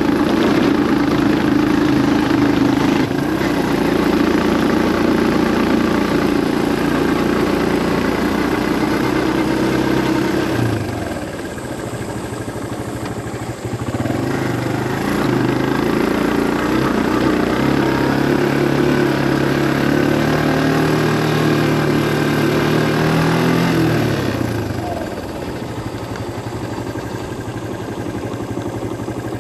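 Engine of a moving vehicle running under way. It eases off about a third of the way in, then climbs slowly in pitch before falling away again near the end, as the throttle is opened and closed on the road.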